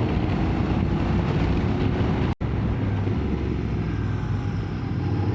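Motorcycle engine running steadily under way, with wind noise on the microphone. The sound cuts out for an instant about two and a half seconds in.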